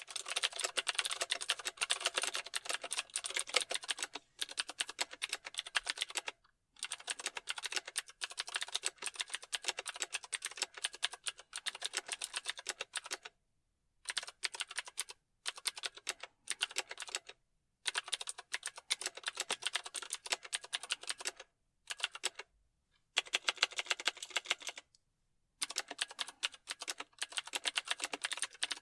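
Computer keyboard typing: fast, dense key clicks in bursts of a few seconds, broken by brief pauses.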